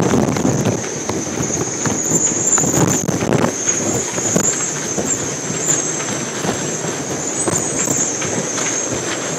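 Hurricane-force wind blowing hard in uneven gusts, buffeting the microphone, with a steady high-pitched whistle running over the rush.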